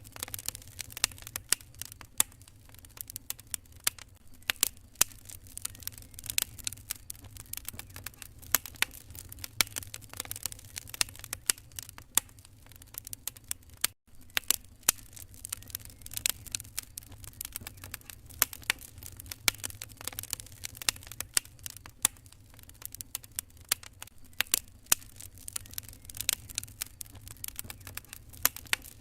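Wood fire crackling in a fireplace: irregular sharp pops and snaps over a steady low rumble. The sound cuts out for an instant about halfway through.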